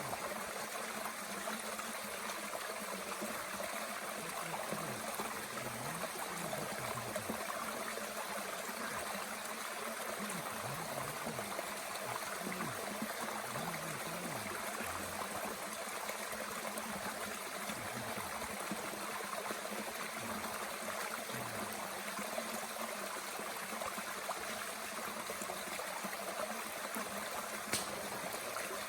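Mountain stream running steadily, with one sharp crack near the end.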